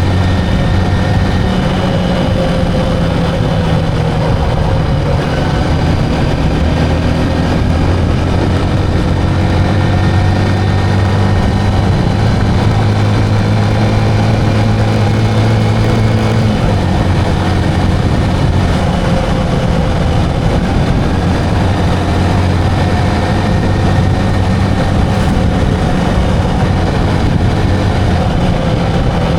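Engine of a moving vehicle running steadily, its pitch drifting slowly up and down, with a deep hum that shifts in pitch about 16 seconds in.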